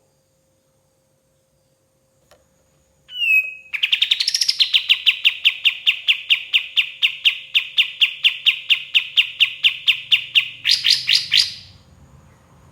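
Kapas tembak songbird singing. After a short falling whistle, it gives a fast run of sharp, evenly repeated notes, about four or five a second, for nearly seven seconds. The run ends in a quicker, higher flourish and stops abruptly.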